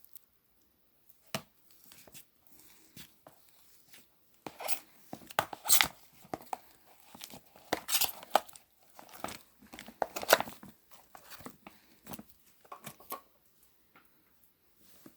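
Slime being squished, pressed and stretched by hand, giving irregular crackling and popping sounds. The loudest bursts come about five to six, eight and ten seconds in.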